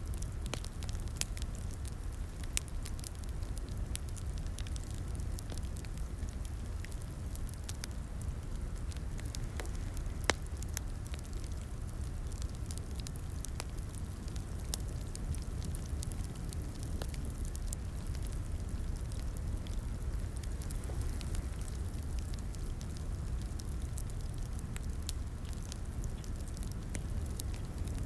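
Wood fire in a fireplace crackling: a steady low rumble of burning with many scattered small pops and snaps, one louder pop about ten seconds in.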